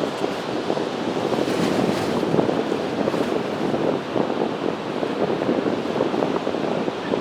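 Strong gusty wind blowing across the microphone: a steady rushing noise that swells and dips.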